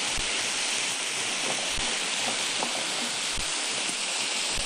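Vegetables frying in a hot pan, a steady sizzle, with a few faint low knocks.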